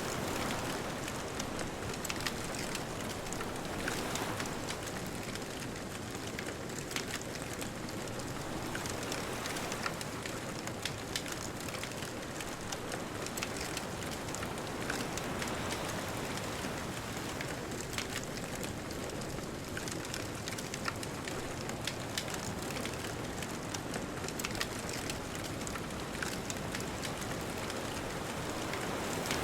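Bonfire crackling with many small, sharp pops over a steady wash of distant ocean surf.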